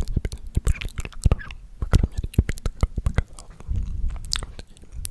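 Close-miked ASMR mouth sounds: a rapid run of wet clicks and smacks, several a second.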